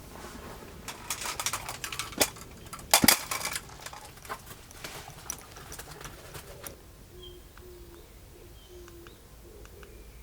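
A run of sharp clicks and knocks, loudest about three seconds in, then a dove cooing in a low, evenly repeated phrase, with a small bird chirping faintly now and then.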